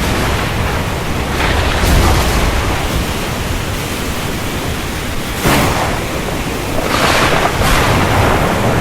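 Heavy rain with thunder rumbling low and continuously. Sharper, louder thunder crashes come about five and a half seconds in and again around seven seconds.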